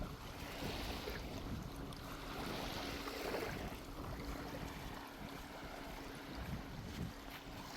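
Small ocean waves washing onto a sandy shore, the hiss swelling and falling twice, with sea breeze rumbling on the microphone and a faint steady hum underneath.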